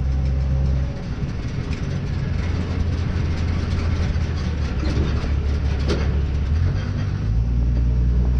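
1938 Ford truck rat rod's engine running on the road, heard from inside the cab. The engine note drops about a second in and rises again about seven seconds in, as the engine speed changes.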